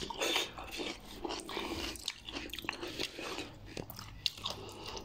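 Close-up chewing and crunching of pani puri: crisp fried puri shells broken in the mouth, heard as irregular small crunches.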